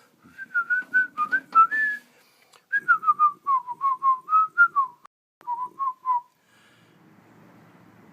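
A man whistling a casual tune in three short phrases, the notes stepping up and down, then stopping about six seconds in.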